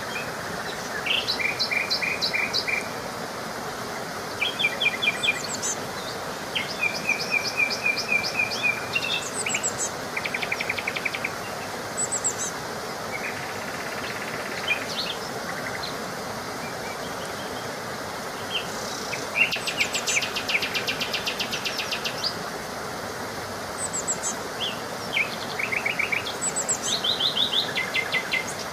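Several small songbirds singing and chirping in short, rapid trilled phrases, one after another and sometimes overlapping, over a steady rushing hiss.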